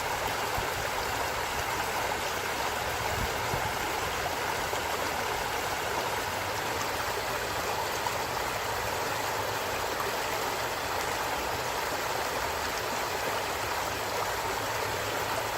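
A stream of running water flowing steadily, an even, unbroken rush.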